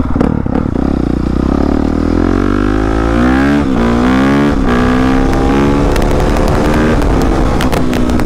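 Dirt bike engine accelerating away, its pitch climbing and then dropping back at each of several upshifts before settling into a steady run.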